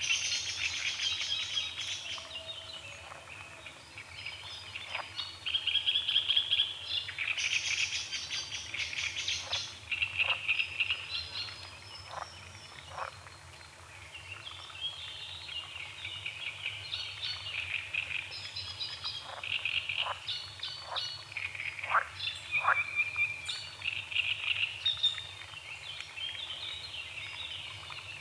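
Frogs croaking in a chorus of rattling, fast-pulsed calls that come and go in runs, mixed with birds singing.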